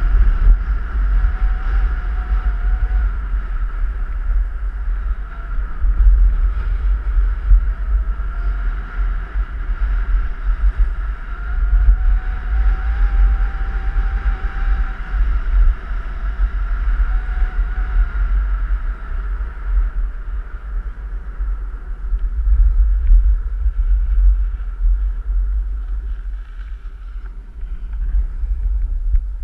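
Wind buffeting the microphone during a snowboard descent, with the board's base and edges hissing and scraping over packed snow; a faint tone wavers up and down as the board slides.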